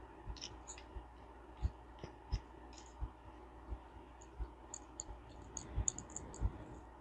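Irregular light clicks and small taps of metal parts of a Ted Williams 540 push-button reel being handled and fitted back together.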